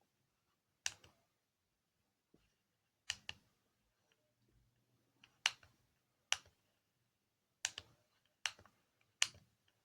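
Keys on a just-repaired Bosch KTS 300 handheld scan tool being pressed: about nine sharp plastic clicks, singly and in quick pairs, at irregular intervals.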